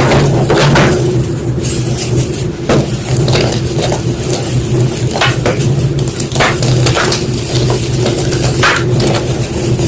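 White gym chalk being crushed and crumbled, giving an irregular run of dry crunches and sharp cracks, several of them louder snaps, over a steady low hum.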